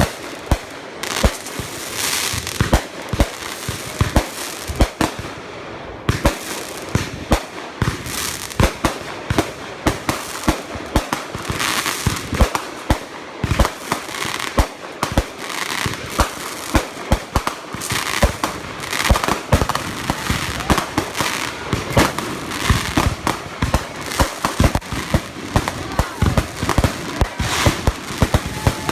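Consumer fireworks firing in rapid, continuous succession: dense sharp reports several times a second over steady crackling.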